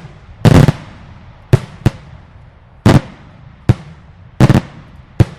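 Daylight fireworks going off: a series of loud, sharp bangs about a second apart, some in quick pairs or clusters, each with a short echoing tail.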